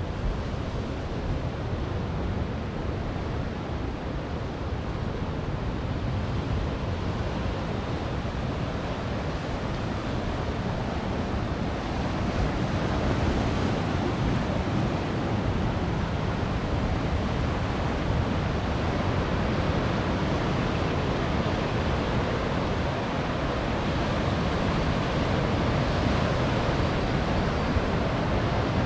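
Ocean surf breaking on coastal rocks: a continuous rushing wash with a deep low rumble, swelling a little louder about halfway through.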